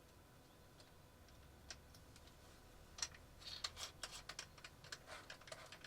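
Near silence, then from about three seconds in a run of faint, irregular light clicks and taps, several a second.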